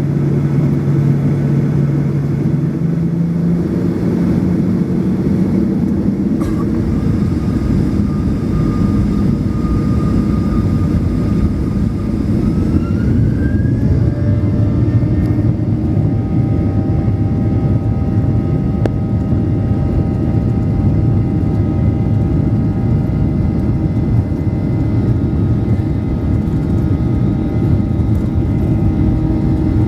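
Boeing 737-800's CFM56 turbofan engines heard from inside the cabin: a loud, steady rumble with a whine that rises in pitch in the first few seconds and again about halfway through, as engine thrust increases.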